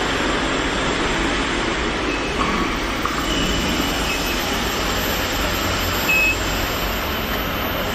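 Steady machinery noise with a low hum and a faint, thin, high tone, broken by a few brief short tones.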